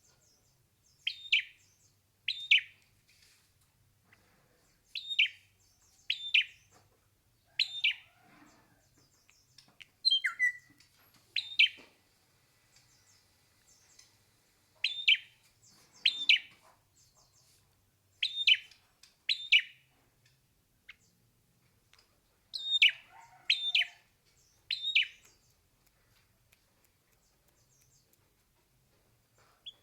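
Hair-crested drongo calling: short, sharp, falling notes, mostly in pairs, repeated every second or two, with one longer stepped, gliding call about ten seconds in. The calls stop for the last few seconds.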